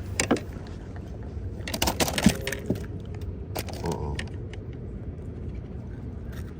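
Scattered sharp clicks and knocks, bunched into a quick clatter about two seconds in, from a just-caught bass and fishing gear being handled on a kayak. A steady low rumble, likely wind on the microphone, runs underneath.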